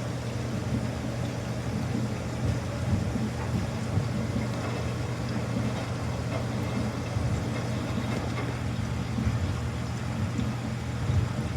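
Samsung front-loading washing machine running mid-cycle on quick wash: a steady low hum from the drum and motor, with small uneven knocks as the load turns.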